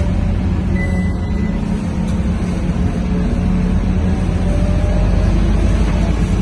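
Scania K230UB city bus's five-cylinder diesel engine running steadily, with tyre and road noise. A short high tone sounds for about a second, about a second in.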